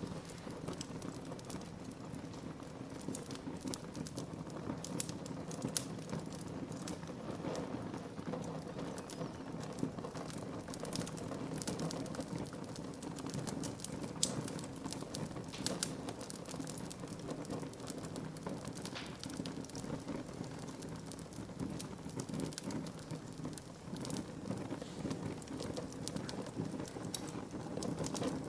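Wood fire burning in a fireplace, crackling steadily with frequent sharp pops over a low, even rush of flame.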